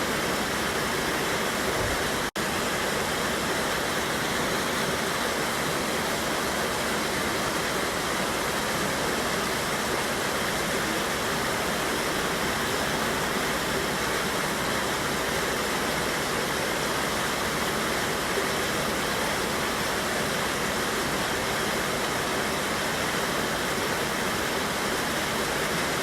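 River waterfall rushing steadily: a dense, even roar of falling and tumbling water, with a split-second dropout about two seconds in.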